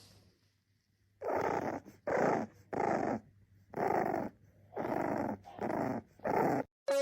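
A dog growling in seven short, evenly spaced bursts, starting about a second in.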